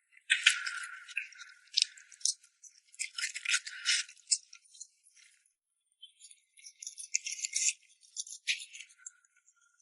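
Close-miked eating sounds of rice noodles in red chili oil: irregular wet, clicky mouth noises in short bursts, with gaps of near quiet between them.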